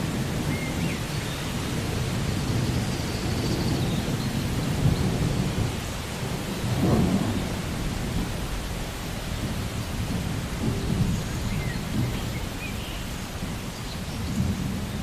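Steady rain with low, rolling thunder that swells about seven seconds in.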